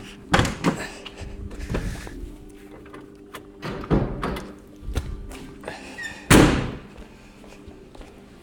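A series of knocks and thumps from the Lancia Fulvia's bodywork as its bonnet is opened. The loudest comes about six seconds in and rings on briefly.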